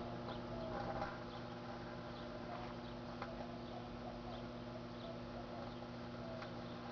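Microwave oven running with a steady electrical hum, while the item burning inside crackles, giving off scattered small ticks and squeaky pops.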